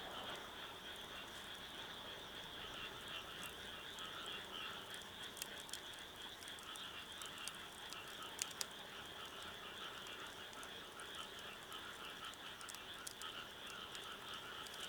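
A dense, steady chorus of frogs calling, with scattered sharp crackles and pops from a wood fire.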